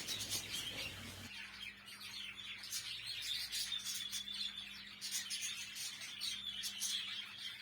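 A flock of budgerigars chattering, with many faint, short chirps overlapping.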